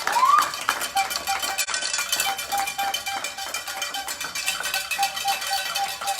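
Air pistols firing and being handled on the line: scattered sharp clicks and metallic clinks, with a short repeated tone in the background and a brief tone rising and falling in pitch right at the start.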